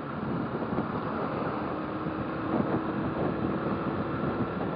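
Motorcycle riding along, its engine running under a steady rush of wind on the microphone, with a held engine tone through the middle.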